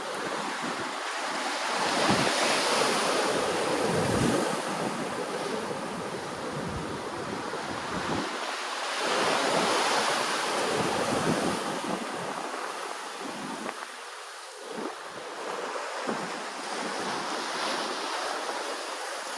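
Sea waves washing in, a steady rushing wash that swells twice, about two seconds in and again around nine to ten seconds in.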